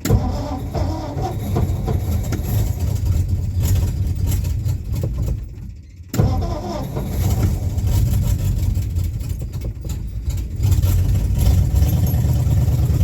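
Old car engine on a cold start: it fires and catches, runs roughly, sags almost to a stall about five and a half seconds in, then fires again and runs on, faster and louder for the last couple of seconds.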